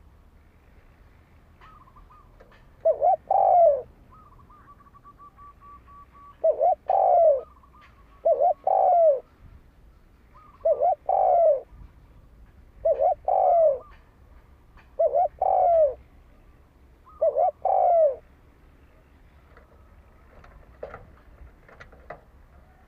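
Spotted dove cooing: seven phrases in a row, about one every two seconds, each a short lead-in note and a longer coo that falls in pitch. Its calls stop a few seconds before the end.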